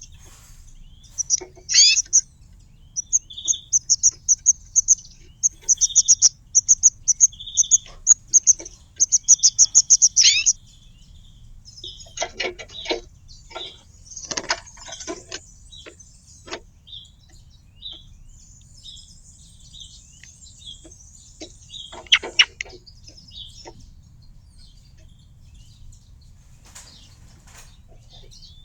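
Small songbirds chirping in fast runs of high, repeated notes for the first ten seconds, then a cluster of short sharp clicks and knocks with softer chirps, and a last burst a little after twenty seconds in.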